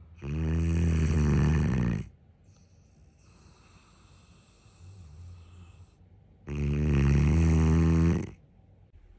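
Neapolitan mastiff snoring in its sleep: two long, loud, rasping snores about six seconds apart, with quieter breathing between them.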